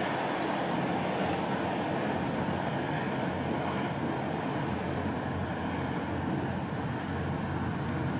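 Steady low drone of boat engines running, under wind noise on the microphone, with a faint steady hum.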